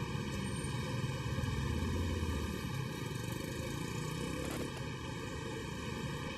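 Road traffic: vehicle engines and tyres make a steady rumble, with a brief click about four and a half seconds in.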